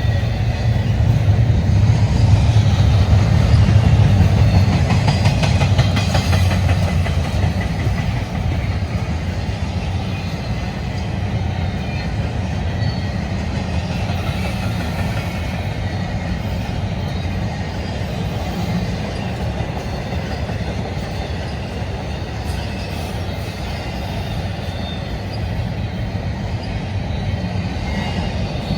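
Freight train rolling past, its wheels clicking over the rail joints, with a heavy low rumble. It is loudest over the first six seconds or so, then settles into a steady roll of passing cars.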